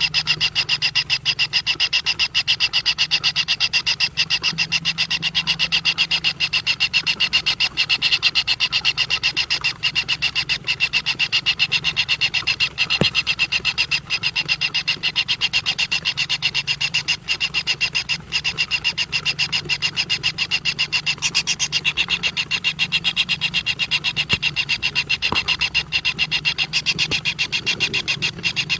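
Steady animal chorus of rapid, densely pulsing calls that runs on without a break.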